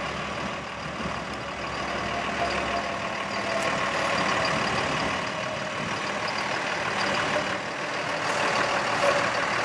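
2005 Freightliner M2 bucket truck's diesel engine running steadily, with a continuous mechanical hiss and faint whine; its low hum drops away about three seconds in.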